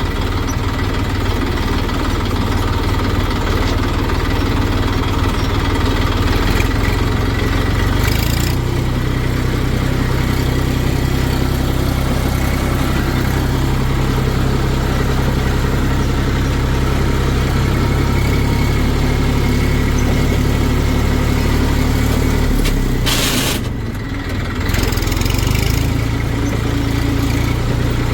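Heavy diesel engine running steadily, its note changing about eight seconds in and dipping briefly near the end.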